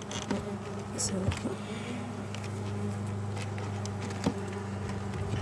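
Honeybees buzzing as a steady hum around an open hive, with a few faint clicks.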